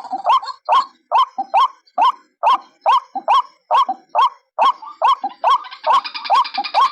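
White-breasted waterhen calling: a fast, evenly repeated series of short, upward-hooked croaking notes, about two to three a second. Near the end a second, denser layer of calls joins in.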